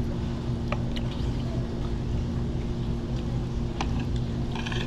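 Steady low hum and rumble of a restaurant dining room's machinery, with a few light clinks of cutlery or dishes and a brief clatter near the end.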